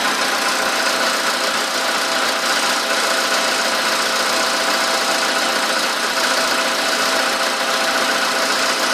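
VW Polo sedan engine running steadily, with a knock that sounds like valve tapping. The knock appeared right after the car's first scheduled service at 13,000 km.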